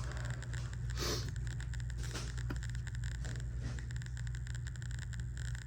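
A few faint scrapes and knocks of metal parts being handled on a golf cart starter-generator, over a steady low hum.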